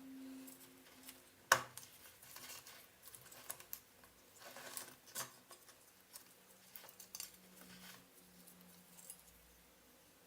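Hands and tools handling blender parts during a repair: scattered small clicks, one sharp knock about a second and a half in, and short bouts of scraping.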